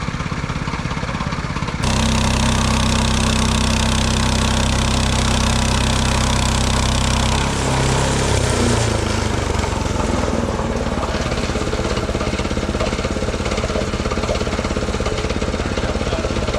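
Small gas engine of a Mechmaxx SM-22 bandsaw mill running. About two seconds in it is throttled up and gets louder with a steady pitch. Around eight seconds in the pitch drops and the running turns rougher.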